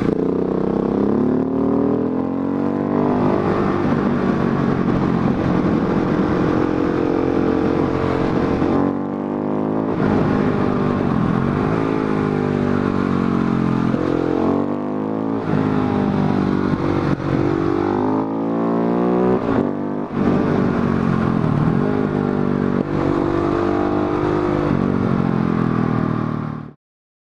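KTM 690 SMC R supermoto's single-cylinder engine being ridden hard, its pitch rising and falling as it revs up and changes gear, with a few brief throttle-off dips. The sound cuts off suddenly near the end.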